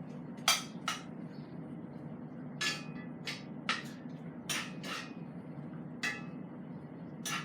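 A metal cooking utensil clinking and knocking against a pot, about a dozen sharp, lightly ringing strikes at irregular intervals, over a steady low hum.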